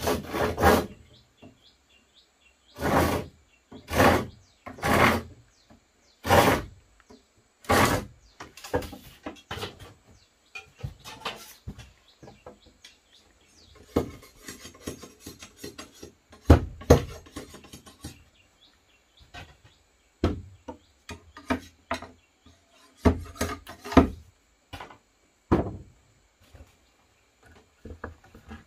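Wood being worked by hand: about five rasping strokes in the first eight seconds, like a saw or rasp on wood, then scattered knocks and scrapes. Birds chirp in the background.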